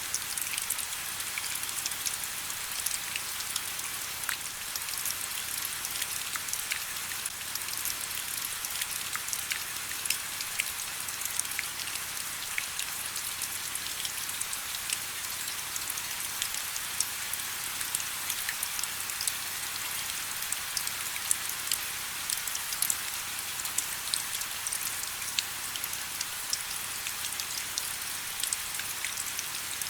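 Steady rain: an even hiss with many separate drops ticking throughout.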